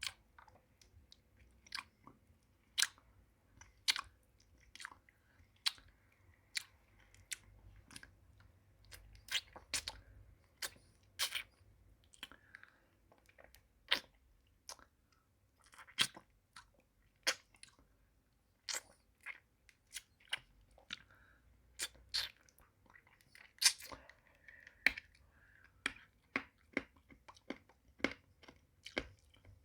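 Close-miked mouth sounds of eating a pacifier-shaped hard-candy lollipop: irregular sharp, wet clicks and crunches, about one or two a second, with soft sucking between them.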